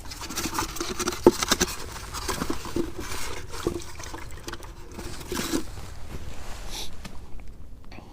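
Water splashing and dribbling as hands dip into a minnow bucket, with scattered small clicks and knocks and one sharper knock a little over a second in. It grows quieter near the end.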